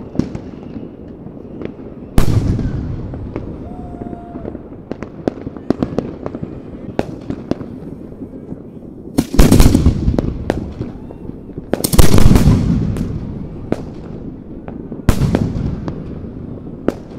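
Aerial firework shells, 4- and 6-inch mortar shells, going off: a loud boom with a long rolling echo about two seconds in, another pair around nine to ten seconds, and more at about twelve and fifteen seconds. Scattered sharp cracks and crackle fill the gaps between them.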